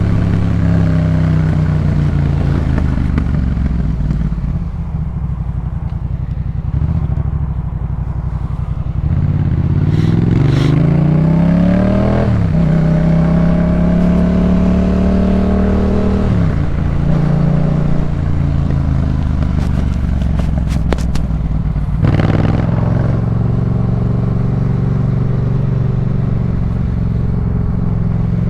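Yamaha MT-07's 689 cc parallel-twin engine through a Jeskap K4 full aftermarket exhaust, riding under load. Revs are held low at first, then climb steeply about nine seconds in, drop at a gear change, hold steady at cruise and drop again at another change. A few sharp cracks come around twenty seconds in.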